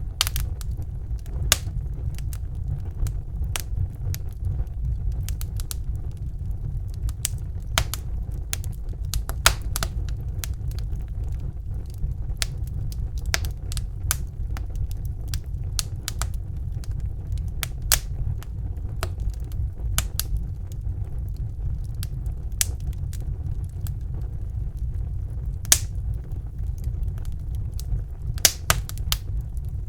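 Wood fire crackling in a fireplace: irregular sharp snaps and pops, sometimes several close together, over a steady low rumble.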